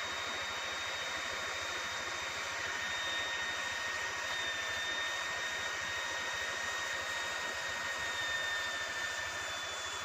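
Hot air plastic welding gun blowing steadily: an even hiss of air with a thin high whine from its blower. A second, lower whine joins about a quarter of the way in and fades near the end.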